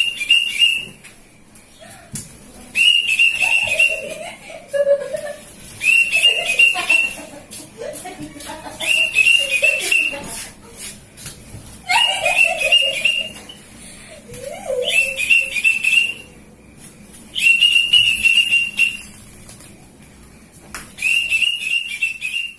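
Whistling: a high, trilled note about a second long, repeated about every three seconds, with softer, lower wavering sounds between the notes.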